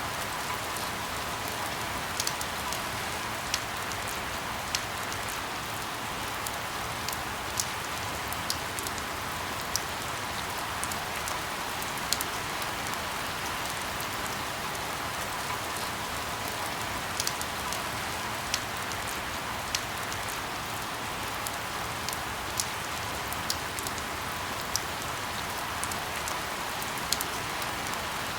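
Steady rain falling, an even hiss, with irregular sharp ticks of single drops striking a hard surface about every second or two.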